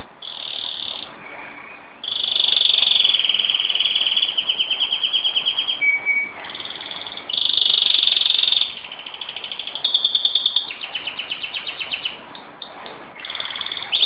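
Pet canary singing a long song: high phrases of held notes alternating with fast rattling trills, separated by brief pauses.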